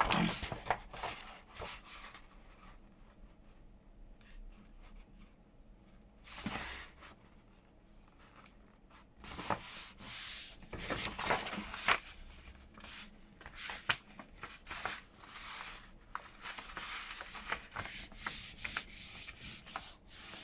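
Sheets of paper being handled: rustling, sliding and rubbing against each other and the desk in irregular strokes, sparse at first and busier from about a third of the way in.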